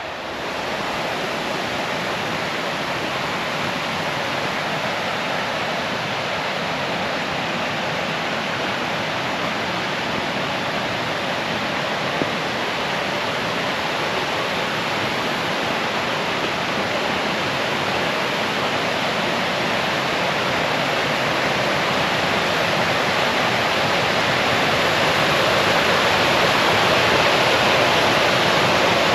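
Waterfall: steady rushing water, growing gradually louder.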